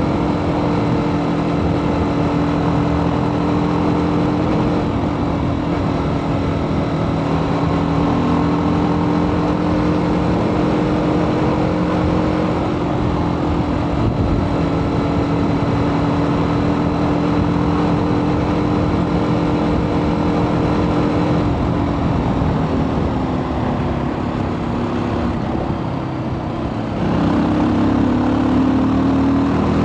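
TVS Apache RTR 310's single-cylinder engine running through its stock exhaust while riding at a steady pace. The engine note drops off about three quarters of the way in as the throttle eases, then steps up and rises again near the end as the bike accelerates.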